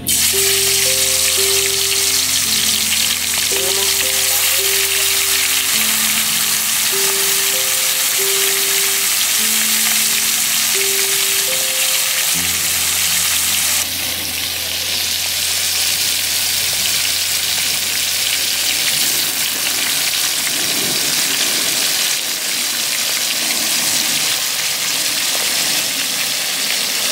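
Marinated pork ribs deep-frying in hot oil in a wok, a loud, steady sizzle.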